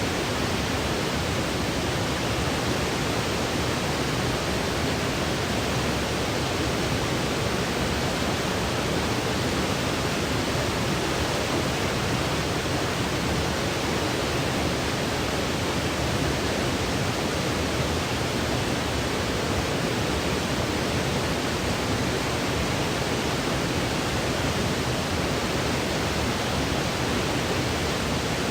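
Steady, unchanging synthetic noise for sleep, an even hiss spread evenly across low and high pitches, with no other sounds.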